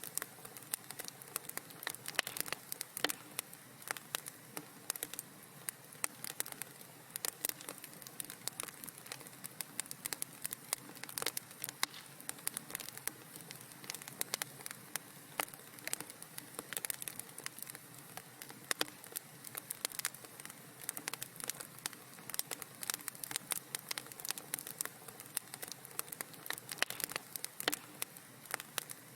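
Wood fire burning in a fireplace, with dense, irregular sharp crackles and pops over a soft steady hiss.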